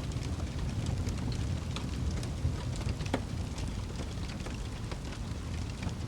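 Fire crackling in a fireplace: a steady low rumble of flames with scattered small pops and snaps, one sharper pop about three seconds in.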